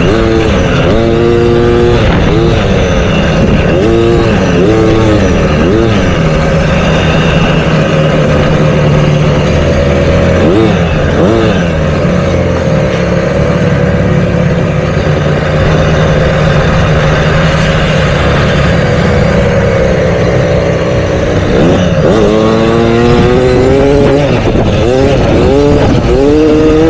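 Motocross bike engines revving up and down over and over, the pitch rising and falling with the throttle, with a steadier stretch in the middle.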